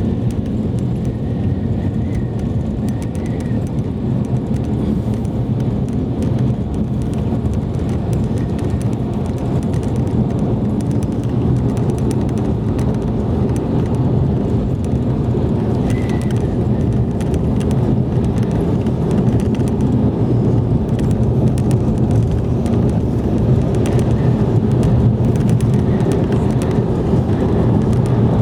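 A car driving along, its engine and tyre noise a steady low rumble that grows slightly louder over the stretch.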